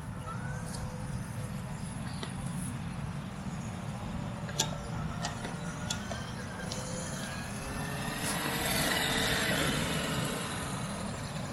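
Traxxas X-Maxx 8S RC monster truck's brushless motor and drivetrain whining as it drives, swelling louder about eight seconds in, over a steady low rumble.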